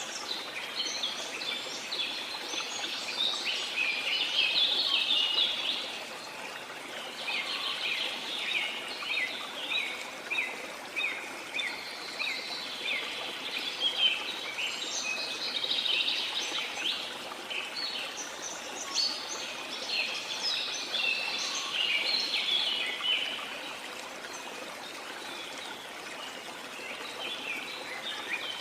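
Many small birds chirping and twittering in a dense, continuous chorus, thinning out briefly near the end, over a steady wash of sea noise.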